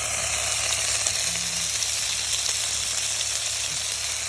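Food sizzling steadily in a hot pan.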